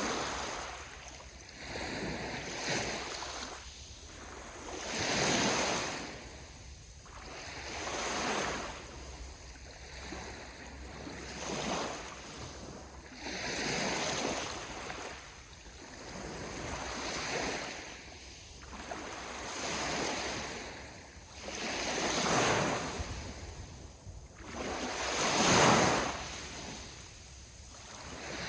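Sea waves breaking on the shore, one after another, each wash swelling and fading every two to three seconds; the largest breaks come near the end.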